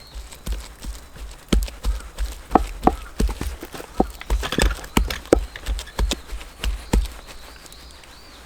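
A run of irregular sharp knocks and clacks of hard objects, two or three a second, stopping about seven seconds in.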